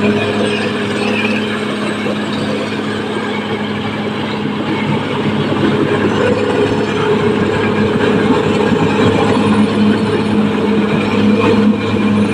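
Caterpillar D6R XL bulldozer's diesel engine running steadily under work, a continuous low hum that grows a little louder in the second half.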